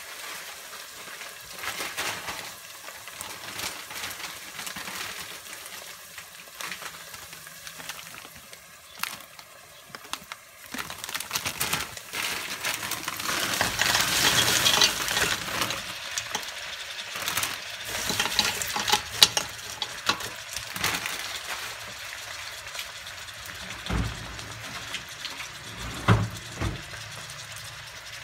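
Chopped onion sizzling in olive oil in a stainless steel pot, with scattered crackles. About halfway through, frozen green beans are poured in from a bag: the sizzling swells loud with rattling as they land, then settles to a steady hiss, with a few knocks near the end.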